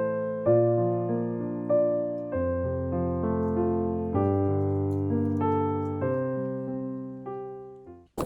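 Solo piano music playing slow, sustained chords that die away near the end.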